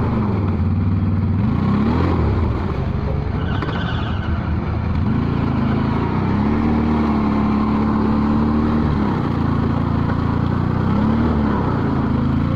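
Off-road vehicle engine running under varying throttle: its pitch dips and rises, holds higher for about three seconds midway, then dips and climbs again near the end.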